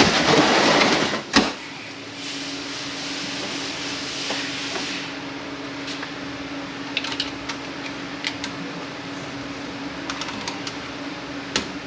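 A heavy automatic transmission case shifting and scraping on the workbench as it is tipped up on its front end, a loud noisy burst over the first second or so. Then a steady low hum with scattered light metallic clicks of tools on the transmission's internal parts.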